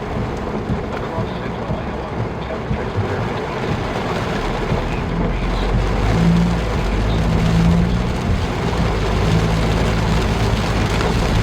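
Car driving, heard from inside the cabin: steady road and tyre noise, with a low engine hum that comes up from about halfway.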